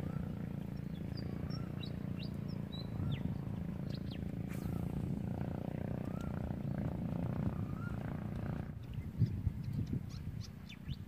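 Small birds chirping in short rising and falling calls over a constant low rumble, with a few louder low thumps about nine seconds in.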